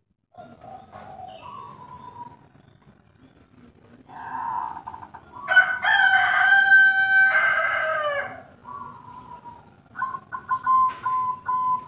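A rooster crows once, loud and long, starting about four seconds in and falling in pitch at its end. Fainter bird calls come before and after it.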